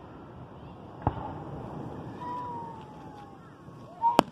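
Aerial fireworks shells bursting at a distance: a bang about a second in and a sharper, louder one near the end, with a low rumble between them. A faint whistle falls slowly in pitch in the middle.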